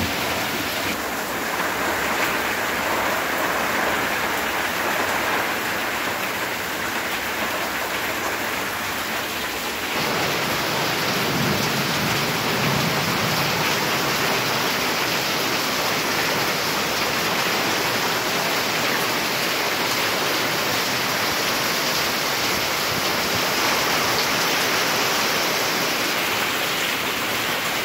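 Heavy rain pouring down on tiled roofs, leaves and paving: a steady hiss that grows louder about ten seconds in.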